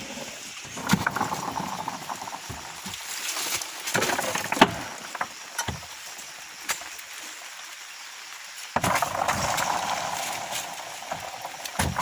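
Irregular heavy thuds and knocks over a steady hiss of rain, typical of oil palm fruit bunches being thrown onto a truck bed.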